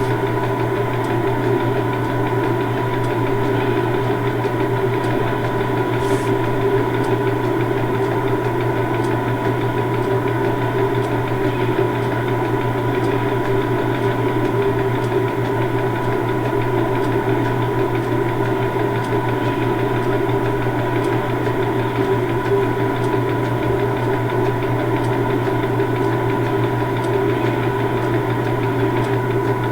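Stationary railway locomotive running steadily: a constant mechanical drone with a few steady tones and no change in pace.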